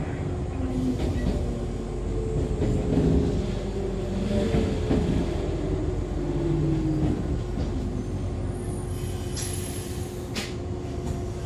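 Interior running sound of Echizen Railway MC6101-series railcar MC6106, the unit known as the odd-noise car, slowing for a station: a whine from its MT54 DC traction motors and gears falls in pitch under the wheel and body rumble as it brakes, with a short high hiss near the end.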